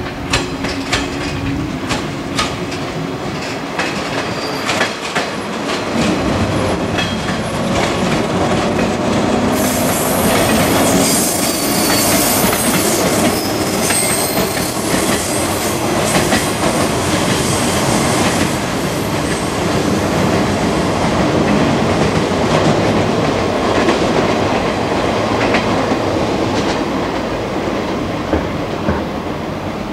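A train running past at close range: wheels clacking over the rail joints, then a high-pitched wheel squeal that sets in about ten seconds in and lasts for most of the rest.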